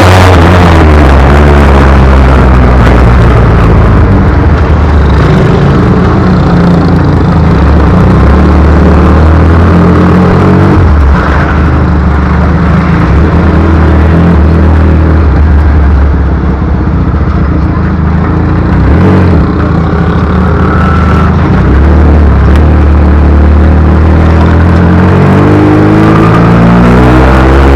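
Motorcycle engine running loudly and steadily, with small shifts in pitch and level around the middle.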